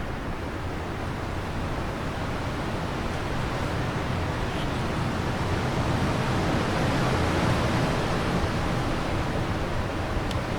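Steady rushing wind, swelling a little in the middle and easing again.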